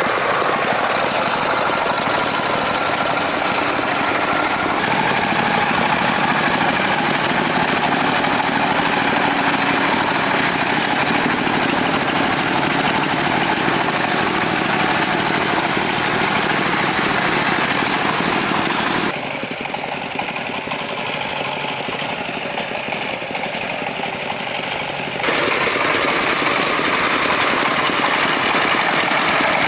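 Farm truck engine running steadily. The sound drops abruptly quieter about two-thirds of the way through, then jumps back up about six seconds later.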